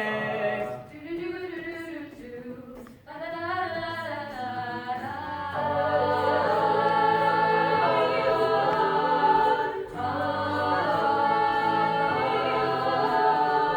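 A cappella vocal group singing wordless held chords in several voice parts, the song's instrumental break carried by voices alone. It swells fuller and louder about six seconds in and dips briefly near ten seconds.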